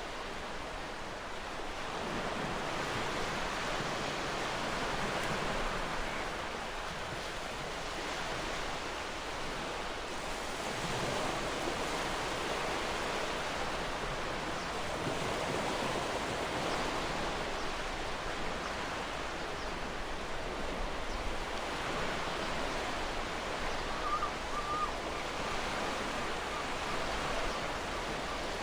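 Gentle ocean waves washing ashore, a steady rushing wash that swells and eases. A brief faint bird chirp comes in near the end.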